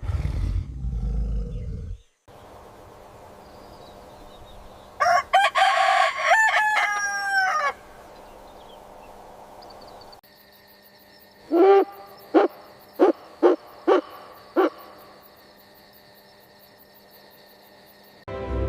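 A rooster crowing once, a single long cock-a-doodle-doo. Several seconds later come about six short, clipped calls in quick succession. A brief noisy whoosh sits at the very start.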